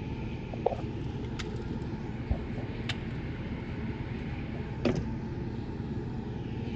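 Steady rush of storm wind and rain, with a few sharp taps scattered through it.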